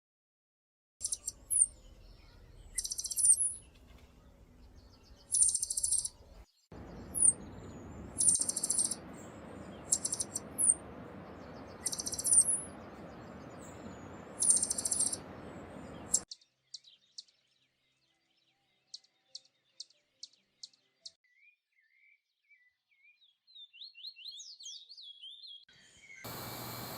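Wild birds calling. For the first fifteen seconds or so, one bird gives loud, high calls about every one to two seconds over a steady hiss. After that come sparse single sharp ticks, and near the end a faint quick run of descending notes.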